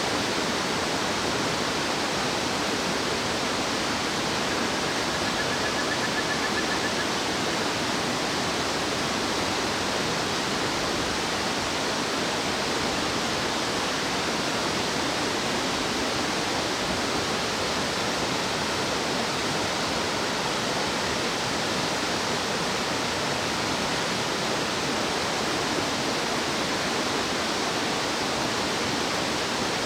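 Fast-flowing stream rushing steadily, a dense even wash of water noise. A faint, brief high-pitched call sounds about five seconds in.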